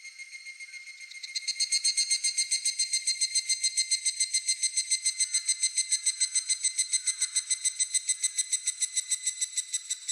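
Higurashi (evening cicada, Tanna japonensis) calling: a rapid, rhythmic series of ringing pulses, about six a second. It comes in loud about a second in, over a fainter one further off, and stops near the end.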